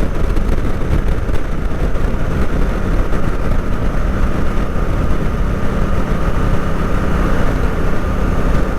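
Honda Africa Twin motorcycle underway: a steady engine drone with heavy wind rush over the microphone.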